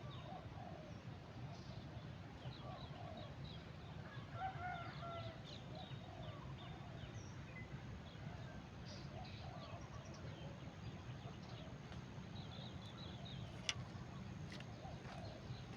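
Outdoor morning birdsong: many short, high chirps from several birds, with a few lower calls about four seconds in, over a steady low background hum. One light click near the end.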